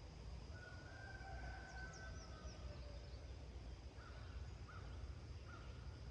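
Farmyard dawn ambience. A long, drawn-out animal call starts about half a second in, with a few short high bird chirps over it. Three short calls follow near the end, over a low rumble and a steady high insect-like tone.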